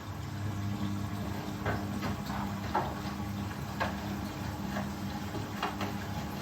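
Indesit Ecosense washing machine running: a steady motor hum with scattered irregular clicks and knocks from the drum.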